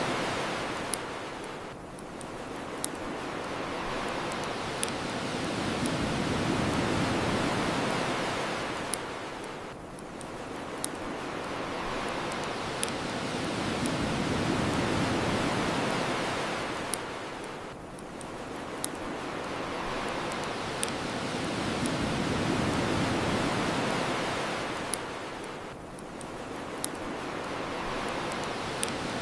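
Ocean waves washing ashore in slow swells, each rising and falling away over about eight seconds, with a bonfire's crackles and pops ticking over them every couple of seconds.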